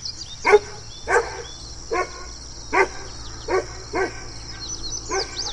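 A dog barking, about seven single barks at an uneven pace, roughly one every second or less.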